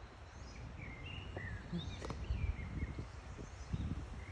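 Small birds chirping in short, repeated calls over a low rumble of wind or handling noise.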